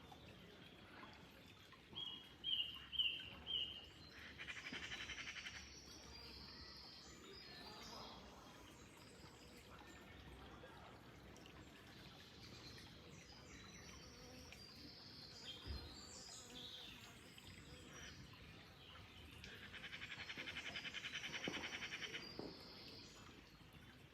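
Songbirds calling over a faint steady wash of flowing water: a few quick high chirps, then a rapid buzzy trill about four seconds in, and a second, longer trill that swells and fades near the end.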